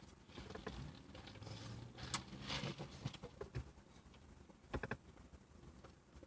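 Faint eating sounds: quiet chewing with a few small clicks and rustles.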